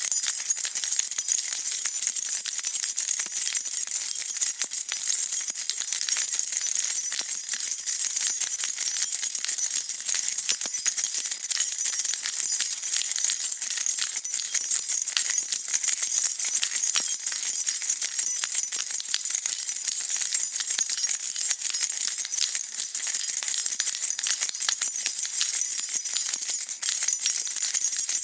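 A bunch of metal keys jingling continuously as they are shaken, a dense, steady shimmer of small metallic clinks.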